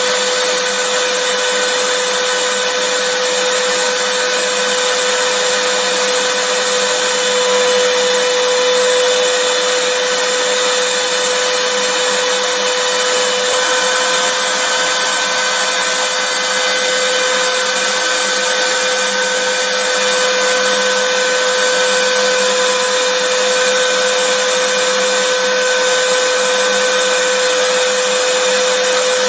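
Vacuum cleaner running steadily, a constant motor whine with a strong hum over a dense rush of air.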